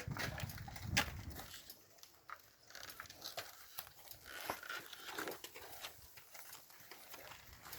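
Cattle grazing close by: irregular crisp tearing and crunching as cows pull up and chew grass.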